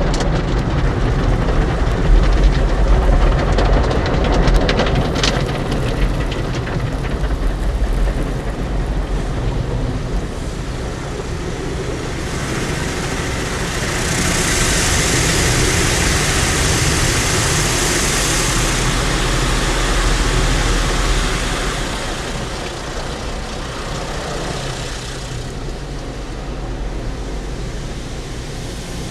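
Motor City Wash Works car wash tunnel equipment running around the car: a steady rumble and rushing noise of spraying water and turning brushes. Midway a loud hiss lasts about five seconds, and near the end the sound settles into a lower, even rush.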